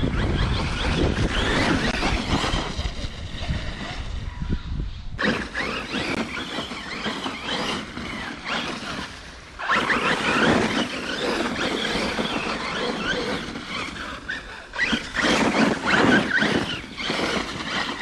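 Arrma Kraton 6S EXB RC truck being driven hard in snow: the electric motor and drivetrain whine, rising and falling in pitch with the throttle, over the noise of tyres spinning in snow. Short lulls come about five and ten seconds in.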